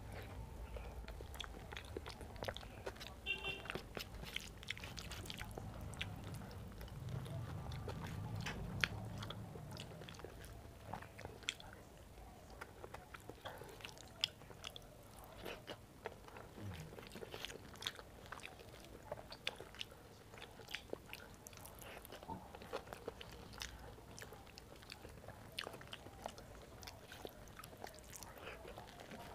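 Close-miked chewing of soft rice mixed with red amaranth greens, with many small wet mouth clicks and lip smacks. A low rumble runs under the first ten seconds.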